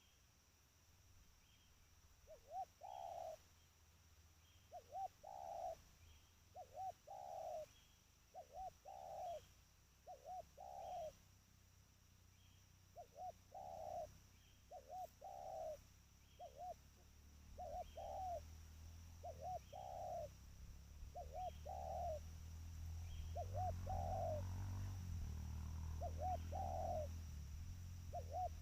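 Spotted dove (tekukur) cooing its call over and over, about one phrase every two seconds, each a few quick short coos followed by a longer coo. A low rumble rises underneath toward the end.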